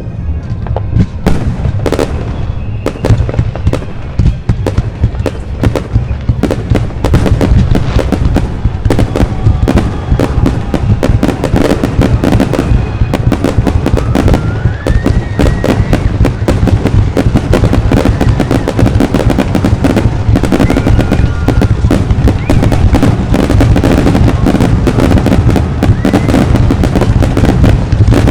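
Aerial fireworks display: a dense run of booms and crackling bursts over a continuous low rumble, thickening into a near-constant barrage after the first several seconds, with a few short whistling glides.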